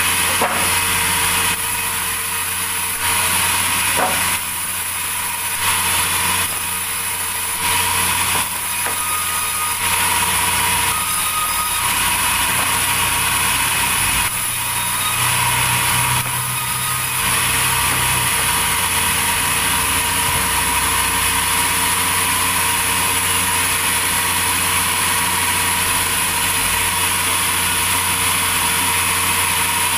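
Sawmill machinery running with a steady mechanical noise. Through the first half it swells and drops every second or two, then holds steady.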